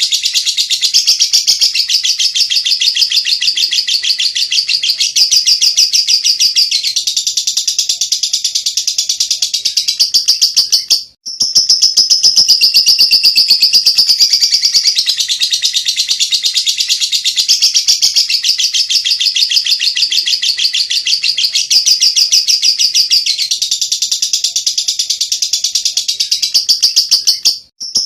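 Lovebird doing ngekek, its long unbroken song of fast, high-pitched chattering notes. The song breaks off twice for a moment, about eleven seconds in and just before the end.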